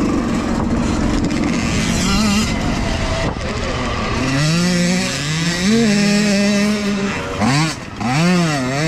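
Youth dirt bike engines racing: a rough, noisy running at first, then from about four seconds in the engine pitch repeatedly rises and falls as the bikes accelerate, shift and back off.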